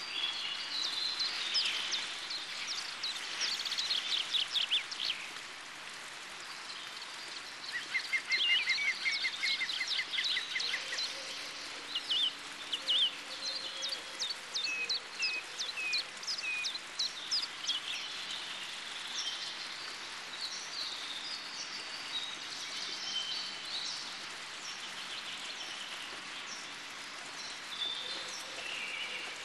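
Birds singing and calling: many quick chirps and trills, among them a fast even trill about eight seconds in and a run of short down-slurred notes a little later, over a steady outdoor hiss.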